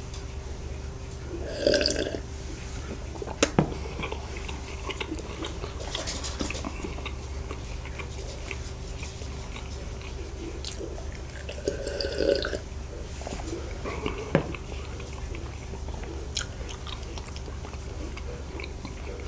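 Close-miked chewing of a soboro bun, a crumbly Korean streusel-topped bread, with a few sharp mouth clicks and two louder mouth sounds, about two seconds in and again around twelve seconds. A faint steady hum lies underneath.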